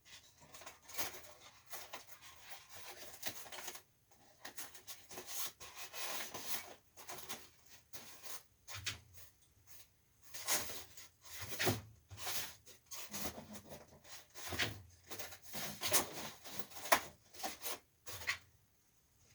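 Irregular rubbing and scraping with sharp handling strokes as parts of a window air conditioner are worked by hand. The loudest strokes come in the second half.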